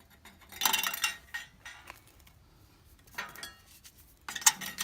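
Metal clinking and rattling as a hardware-cloth platform is fitted into a metal twig stove. There is a burst of clinks about half a second in, a few light taps past three seconds, and a louder burst of clinking near the end.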